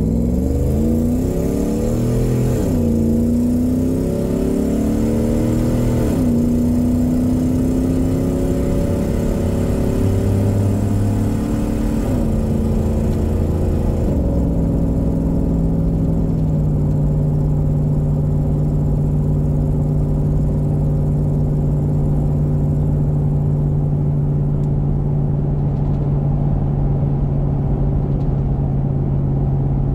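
Toyota Sequoia's 4.7-litre V8 with a custom exhaust (short-tube headers and an aftermarket muffler), heard from inside the cab under hard acceleration onto the highway. The engine note climbs and drops back at each upshift over the first fifteen seconds or so. It then settles into a steady drone at cruising speed.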